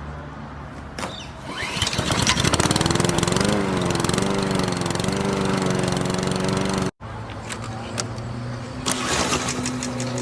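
Lawnmower sound: a sputtering start-up, then steady running that cuts off suddenly about seven seconds in and starts again at once.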